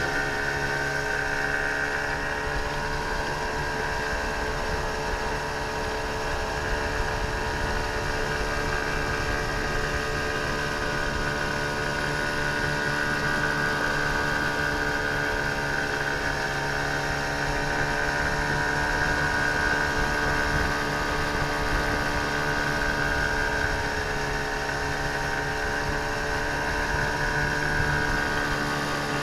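15 hp outboard motor running steadily at an even speed, its note unchanging throughout.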